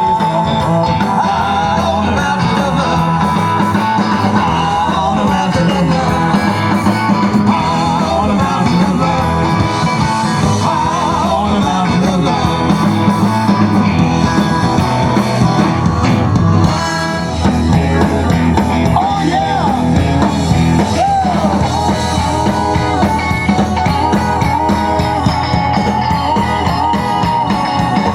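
A live rock and roll band playing, with a brief dip in level about two-thirds of the way through.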